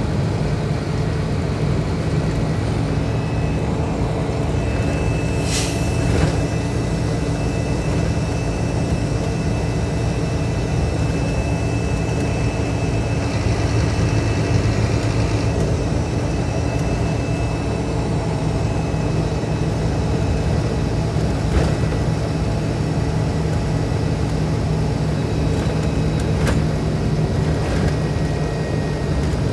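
Scania K310IB bus's rear-mounted diesel engine running at a steady speed, with a brief high hiss about six seconds in.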